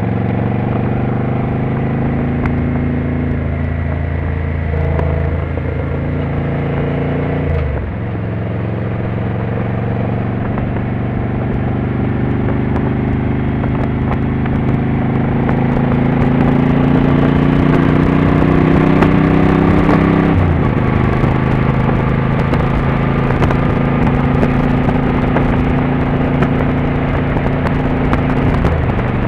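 Motorcycle engine under way, pulling through the gears: the engine note climbs, drops sharply at a gear change about seven and a half seconds in, climbs slowly again, and drops at a second gear change about twenty seconds in before holding steady.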